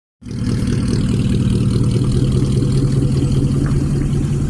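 Car engine idling steadily with a deep, even rumble, starting just after a sudden cut.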